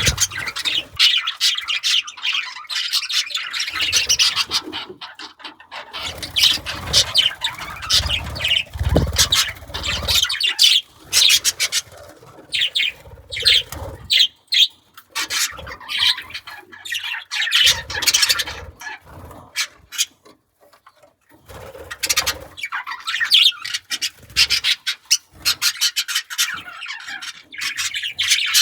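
Budgerigars chirping and chattering in quick, broken bursts, with some low thuds and rustling about a third of the way in.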